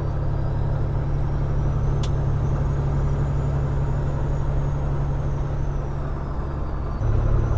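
Peterbilt 389 glider's diesel engine running steadily, heard from inside the cab. About seven seconds in, its note drops and gets louder. There is a single click about two seconds in.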